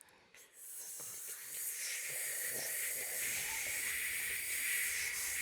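A steady hissing noise fades in over about the first second and then holds, with a few faint clicks scattered through it.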